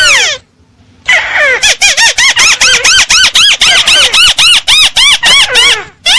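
Crake calls from a bird-lure recording: one rising-and-falling squealing note, then from about a second in a fast, even run of the same arched notes, about five a second.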